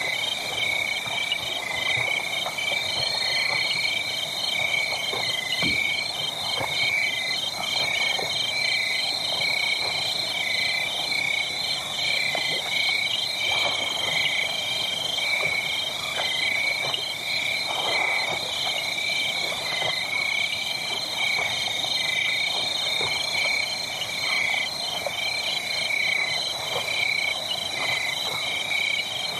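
A dense chorus of small animals calling: high-pitched pulsed calls repeating several times a second and overlapping without pause. Faint crackles of a burning wood fire sound beneath.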